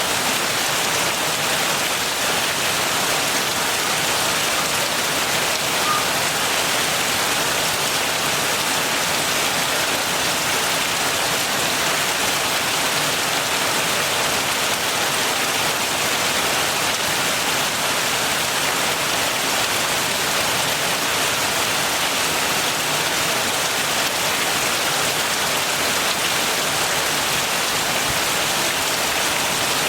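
Heavy rain falling steadily, an even unbroken hiss of drops on surfaces with no thunder.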